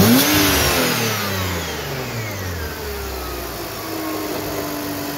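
Supercharged car engine coming back down from a blip of the throttle: the engine note and the supercharger's high whine slide down over about three seconds, then it settles into a steady idle.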